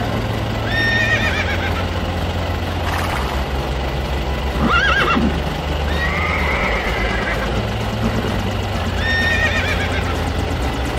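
Horse whinnying about four times, each a wavering neigh, over a steady low hum; the neighs are a recorded sound effect laid over toy horses riding in a toy truck.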